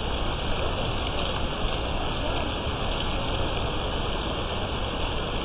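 Storm of straight-line wind and rain heard as a steady, even noise with no distinct strikes.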